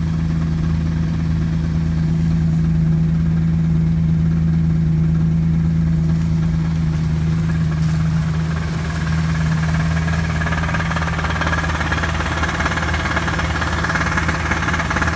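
Chevrolet Camaro V6 engine idling with a knock from the bottom end, the sign of a failing engine with rod knock. A hissing noise builds in the second half.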